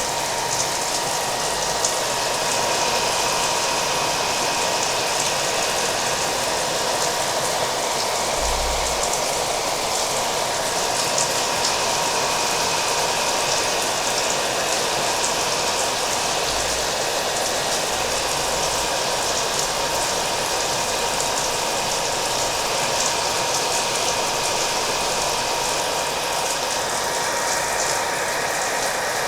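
Hair dryer running steadily with a thin constant whine, layered over continuous rain.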